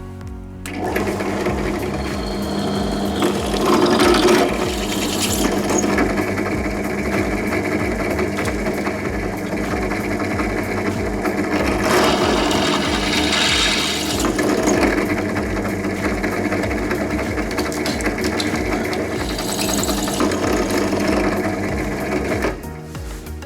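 A power tool cutting steel, running steadily for about twenty seconds, starting about a second in and stopping abruptly near the end.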